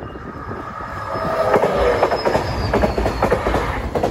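A Greater Anglia Stadler FLIRT passenger train passes close by over the level crossing, its wheels clicking rapidly over the rail joints with a faint squeal. It grows louder about a second in.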